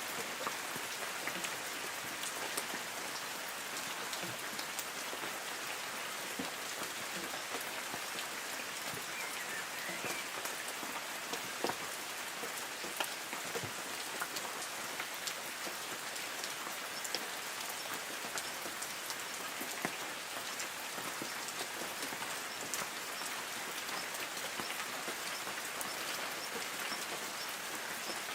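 Light rain falling on forest trees: a steady hiss of rain with many separate drop strikes on the leaves.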